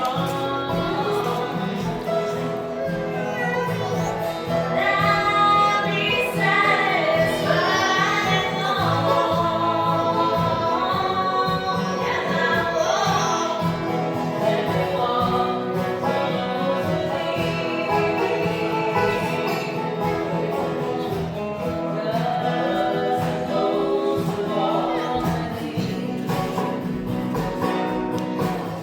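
Live acoustic mountain music: a small group singing a gospel song together to guitar accompaniment.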